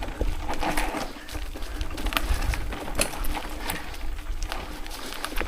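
Mountain bike rattling and clattering over a rough trail, with irregular clicks and knocks, while wind buffets the action camera's microphone with a low rumble.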